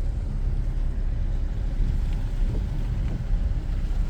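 Steady low rumble of a car driving, from inside the cabin: tyre and engine noise.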